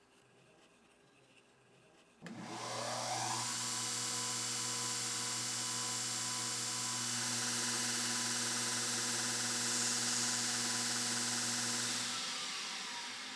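A small electric motor switches on about two seconds in, spins up and runs steadily with a whir and a strong airy hiss, then begins to wind down near the end.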